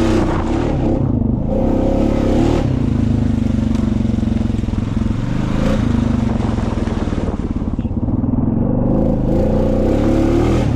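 Honda Rubicon ATV's single-cylinder engine running under load on a side hill, its pitch dipping and rising with the throttle near the start and again near the end.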